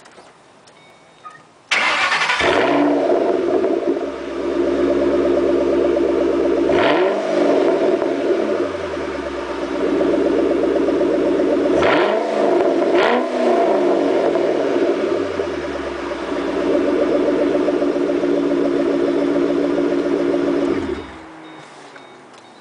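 Shelby GT500KR's supercharged 5.4-litre V8 and exhaust starting about two seconds in and settling to a steady idle, blipped twice so the pitch rises and falls quickly, then shut off shortly before the end.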